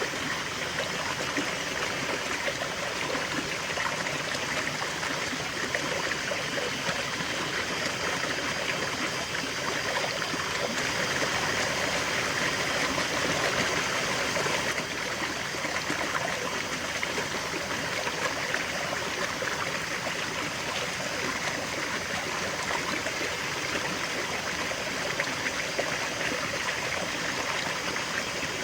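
River water flowing over stones: a steady babble and trickle, swelling a little partway through.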